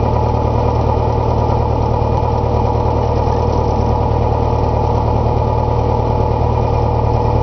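A Beechcraft Sundowner's four-cylinder piston engine idling steadily on the ground, with an even low drone, shortly before shutdown.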